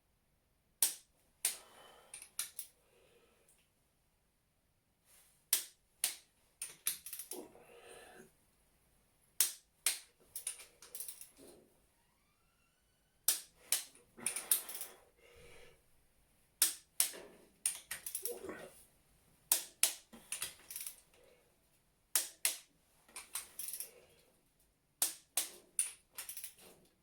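Click-type torque wrench set to 100 Nm tightening the crankshaft bearing cap bolts of a Cosworth YB engine: repeated sharp clicks as the wrench breaks over at the set torque, with short stretches of ratcheting and metal handling between the clicks.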